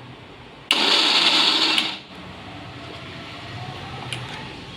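Electric mixer grinder pulsed once for about a second, grinding roasted nuts to powder, then cutting off. It is run in short pulses so the nuts don't release oil and turn to butter.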